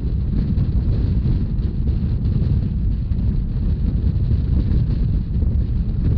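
Steady low rumble of a moving Rhaetian Railway narrow-gauge train, with wind buffeting the microphone.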